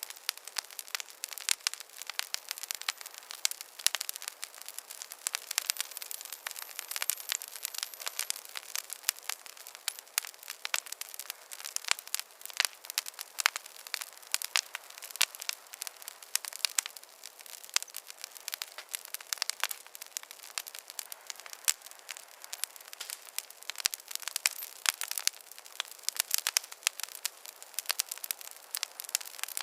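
Wood fire crackling in a fireplace: dense, irregular pops and snaps over a soft hiss, with no low rumble.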